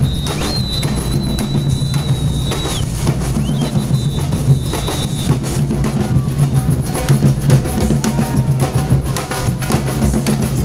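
Several drums beaten together in a lively, continuous rhythm, with deep bass-drum beats under quicker strokes. A high, steady whistle-like tone is held twice in the first half.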